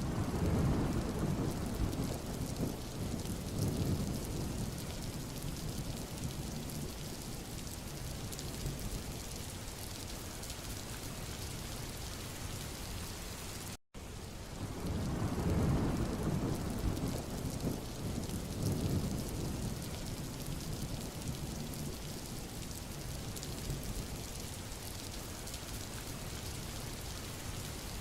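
Steady rain falling on a road, an even hiss, with a low rumble swelling for a few seconds near the start. The sound cuts out for an instant about halfway through, and the same rain and rumble start over: a looped recording.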